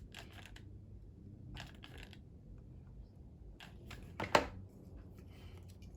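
Faint clicks and taps of hands handling small hobby parts, with one sharper click about four seconds in.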